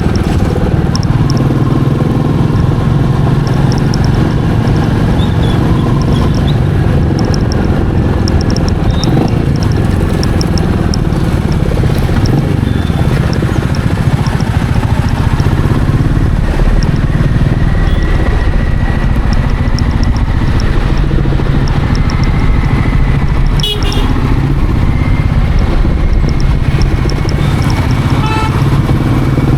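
Royal Enfield Meteor 350's single-cylinder engine running steadily under way, heard from the rider's position.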